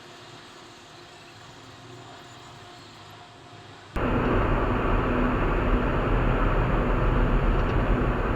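Steady road and engine noise of a car being driven, heard from inside the cabin, cutting in suddenly and loudly about four seconds in after a faint, steady hum.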